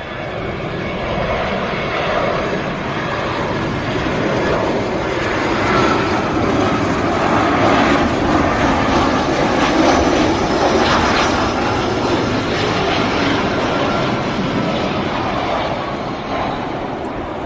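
Fixed-wing airplane's engines passing by. The noise builds to a peak about halfway through, then fades, with a faint whine that falls slowly in pitch as the aircraft goes past.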